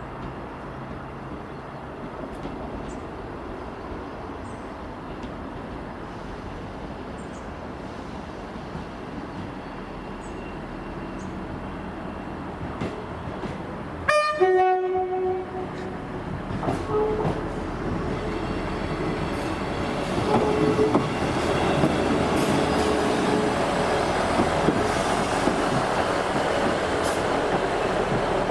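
ScotRail Class 158 diesel multiple unit pulling into a platform. About halfway through it sounds a two-tone horn once, a high note dropping to a low note, for about a second. Its diesel engines and wheels on the rails then grow steadily louder as it draws alongside.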